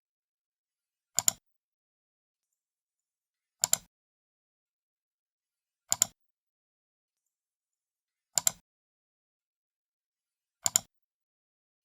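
Computer mouse left button clicked five times, about once every two and a half seconds, each click a sharp double tick of press and release.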